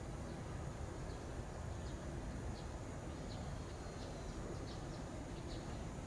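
A small bird chirping faintly: short high chirps about once a second over a steady low rumble of outdoor background noise.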